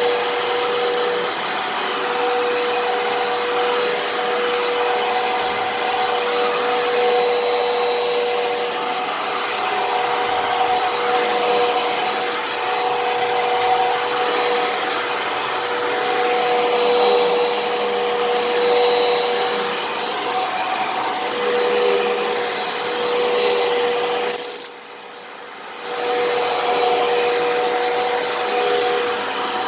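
Fantom Fury vacuum cleaner running with a steady motor whine and rushing airflow. About 25 seconds in, the sound drops away sharply for about a second, then comes back.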